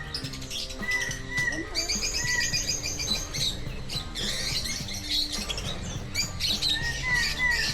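Background music with birds chirping and calling over it: a dense run of quick high chirps about two seconds in, and short repeated hooked calls throughout.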